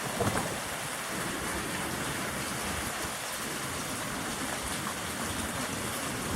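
Steady heavy rain falling and spattering on surfaces, driven by strong wind, with a brief louder gust near the start.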